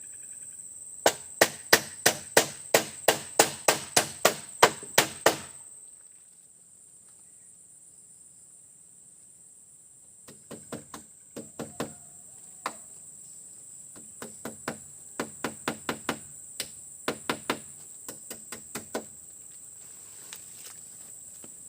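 A tool strikes repeatedly, about three sharp blows a second for four seconds. After a pause comes another, more irregular run of blows. A steady high insect drone goes on underneath.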